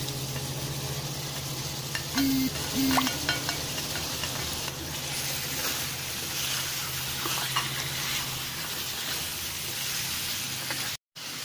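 Masala-coated liver pieces sizzling as they fry in a hot pan, with a spatula stirring and scraping them. Partway through, chopped onion is added and stirred in.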